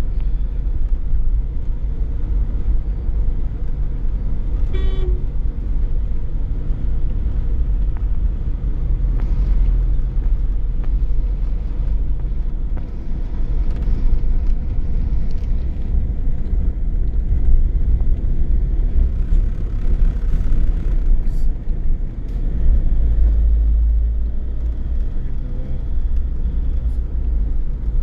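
Car driving on the road, with a steady low rumble of engine and road noise. A short horn toot sounds about five seconds in.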